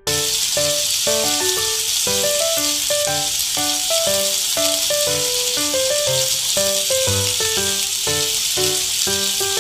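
Chicken leg quarters frying in a pan with onion and garlic, a steady loud sizzling hiss that cuts in suddenly. Background music with a melody of short notes plays over it.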